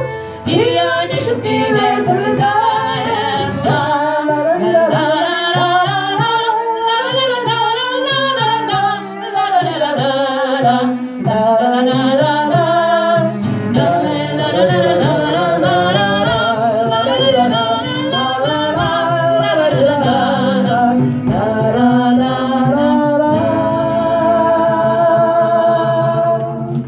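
Live singing with guitar accompaniment: a song's closing passage, ending on a long held note that cuts off.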